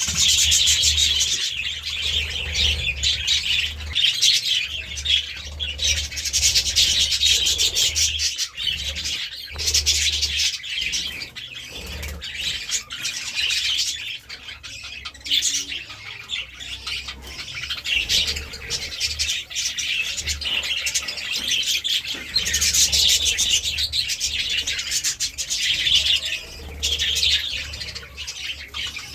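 Several budgerigars chattering, a dense and continuous run of rapid chirps and warbles with the odd squawk.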